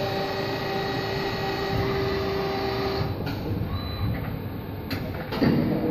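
CNC lathe running its C-axis indexing and drilling cycle: a steady machine whine with a held tone that drops out about halfway, then two sharp clicks near the end.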